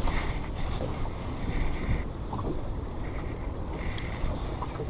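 Strong wind buffeting the microphone and water slapping at a small boat, with a few light knocks.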